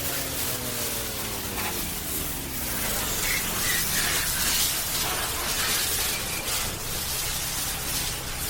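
A wash hose spraying water in a steady hiss over a steady low machine hum from the washing rig. A falling whine fades out in the first two or three seconds.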